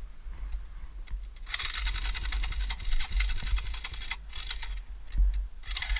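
Off-road motorcycle engine running with a rapid rattling buzz that swells for a couple of seconds from about a second and a half in and again near the end, over steady wind rumble on the microphone.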